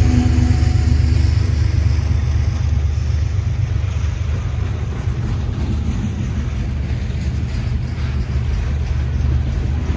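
Diesel freight train, a deep steady rumble that eases slightly over the first few seconds. A few higher engine tones fade out about half a second in.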